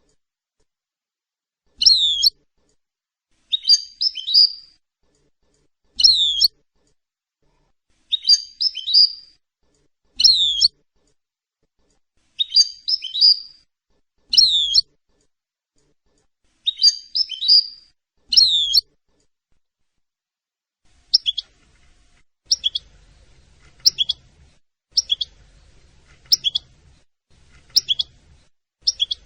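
European goldfinch calls, sharp high chirps repeated at very even intervals, a falling call alternating with a twittering one. Near the end they change to short single chirps about every second and a half over a faint low hum.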